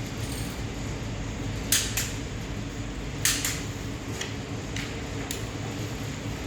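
Sharp metal clinks of tools and engine parts being handled during piston and connecting-rod assembly: two quick pairs of clinks, then three lighter taps, over a steady low hum.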